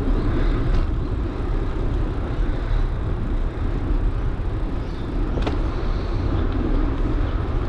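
Steady rushing noise of a bicycle ride: wind over the microphone and tyres rolling along the path, with a faint click about five and a half seconds in.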